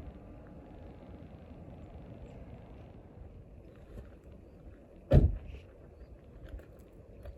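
A steady low outdoor rumble, with one loud, sharp thump about five seconds in and a few faint clicks around it.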